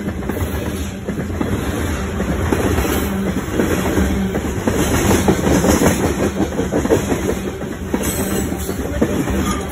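Freight train wagons rolling past close by: a loud, steady rumble of steel wheels running over the rails.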